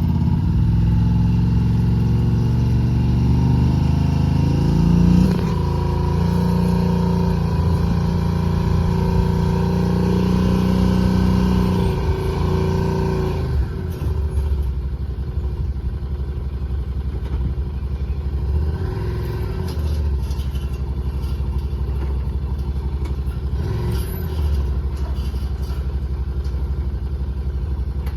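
Yamaha side-by-side's engine pulling slowly under load as it climbs the loading ramps in four-wheel drive with diff lock, its pitch rising and falling with the throttle. About halfway through it drops to a lower, steadier idle, with two brief revs later on.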